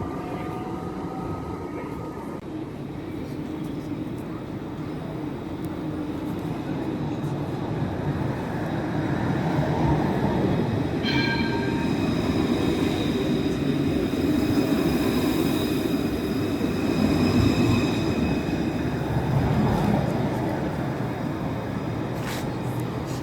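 A tram passing close by, its running noise swelling up and then easing off, with a high-pitched squeal from its wheels setting in suddenly about halfway through and holding for several seconds.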